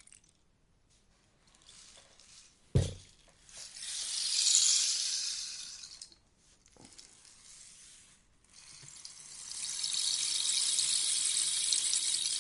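A rainstick being tipped, its beads trickling down inside in a rain-like hiss that swells and fades twice. A single sharp knock comes just before the first swell, louder than the pour.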